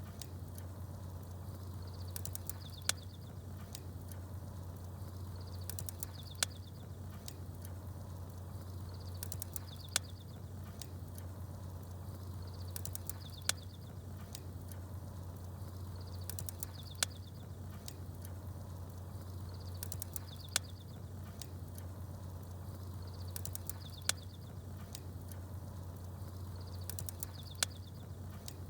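Campfire crackling, with single sharp pops at an even spacing of about three and a half seconds. Faint high bird chirps come just before each pop, all over a steady low hum.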